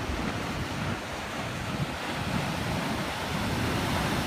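Ocean surf breaking and washing in, a steady rushing wash that swells gradually louder toward the end, with wind rumbling on the microphone.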